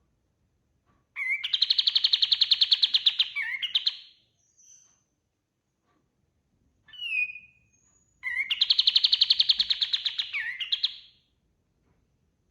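Kapas tembak bird singing: two long, rapid, rattling trills of about three seconds each, with a short falling call in between.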